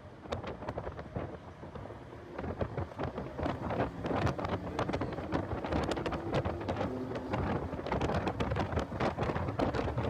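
Heavy wind noise buffeting the microphone in a car at speed on a race track, a rumbling roar full of sharp crackles that grows louder about two and a half seconds in.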